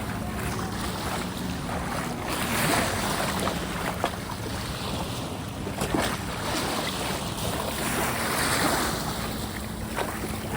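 Sea water rushing and waves with wind buffeting the microphone, over a faint steady low hum from a jet ski engine. The water noise swells twice, about two and a half seconds in and near the end.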